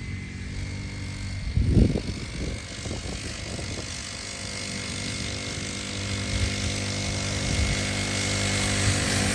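Small 40cc four-stroke mini dirt bike engine running steadily, with a brief louder rumble about two seconds in, and growing louder in the second half.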